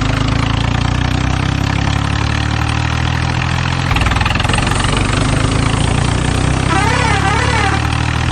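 Tractor engine idling steadily, with a low, even throb. About seven seconds in, a warbling tone that rises and falls joins it.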